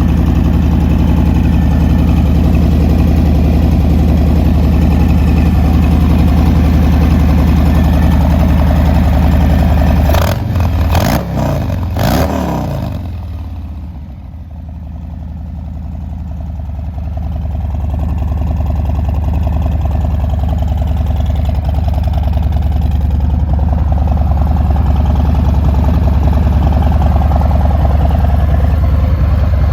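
Harley-Davidson Breakout 114's Milwaukee-Eight 114 V-twin idling steadily, blipped through a few quick revs about a third of the way in, then settling back to idle. The sound dips briefly after the revs and returns to full strength.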